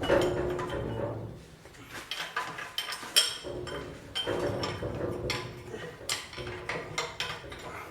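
Wrench and steel parts clinking, with repeated sharp metallic clicks and brief ringing, as bolts are turned on a tractor's split joint.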